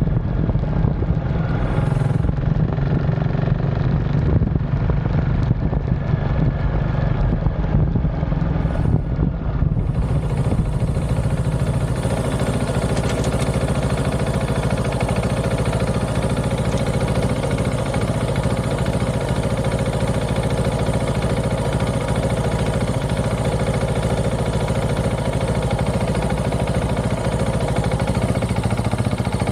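KTM 690 SMC R single-cylinder engine running steadily through an aftermarket DVR exhaust. A steady high hiss joins about ten seconds in.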